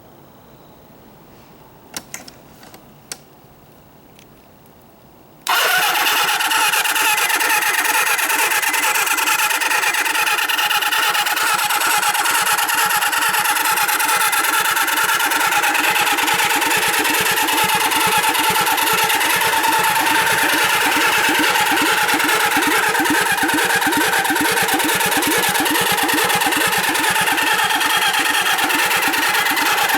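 Kawasaki Z500 (KZ500B) inline-four turned over on its electric starter. A few clicks come first, then about five seconds in the cranking starts abruptly and goes on steadily with an even, fast pulse, without the engine catching. The bike is sold as cranking-only and in need of repair.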